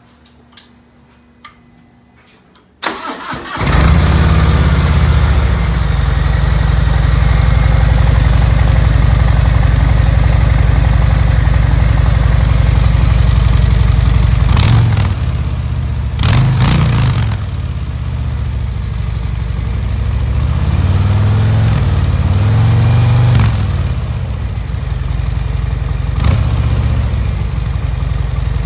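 2018 Harley-Davidson Softail Deluxe's V-twin on its stock mufflers: the starter cranks about three seconds in, the engine catches and settles into a steady idle, then is blipped several times, each rev rising and falling back to idle.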